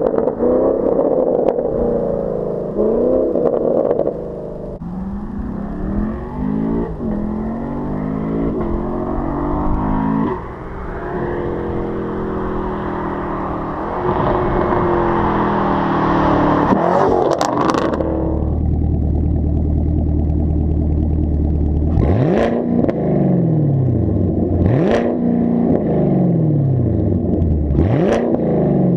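The 2019 Camaro SS's 6.2-litre V8 running through a muffler-deleted exhaust, its revs rising and falling for the first half. A few sharp clicks follow, then it settles to a steady low idle about 18 seconds in. Near the end come three quick throttle blips, each rev shooting up and falling back to idle.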